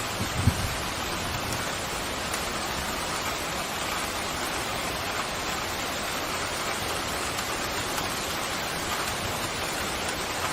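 Steady pouring rain, an even hiss of drops with no pauses. A brief low thump comes about half a second in.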